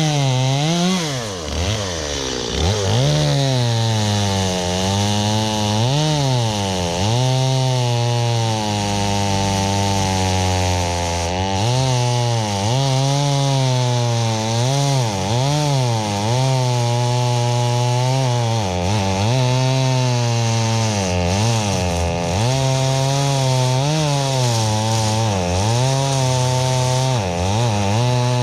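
Two-stroke chainsaw cutting through a tree trunk. Its engine pitch sags and climbs back again and again as the chain loads up in the wood and frees.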